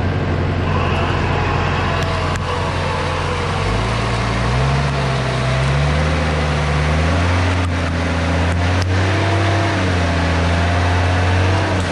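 Off-road 4x4's engine running steadily, then revving up about four seconds in and rising and falling in pitch as it works under load.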